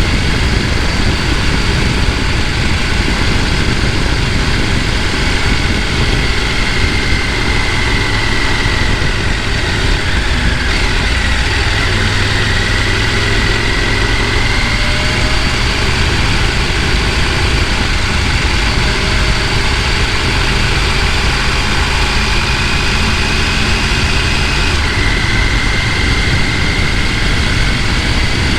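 Mountain stream rushing over rocks: a loud, steady, unbroken rush of water.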